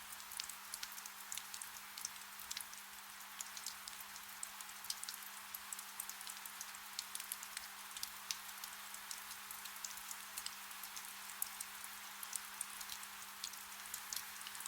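Soft rain: a steady hiss with many small drops ticking sharply and irregularly, over a faint steady low hum.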